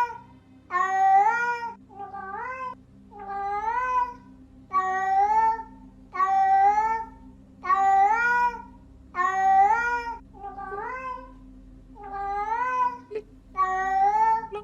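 Domestic cat meowing over and over, about one meow a second, each a short call that rises and then falls in pitch, some softer than others.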